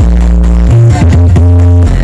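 Electronic dance music played very loud through a giant sound system with subwoofers, with heavy held bass notes, a steady beat and pitch sweeps about a second in.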